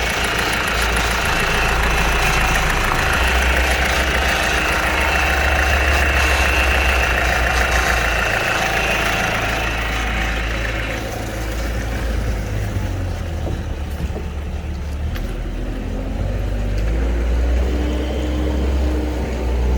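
Fiat Scudo's 1.6 HDi four-cylinder diesel engine (code 9HU) running on a test run. Its note shifts a few times, and a hissing band in the upper range drops away about eleven seconds in, leaving a lower, rougher running sound.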